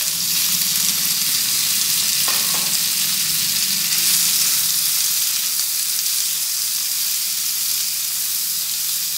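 Raw chicken pieces sizzling loudly in hot oil with chopped garlic in a nonstick frying pan, stirred with a silicone spatula: a steady frying hiss.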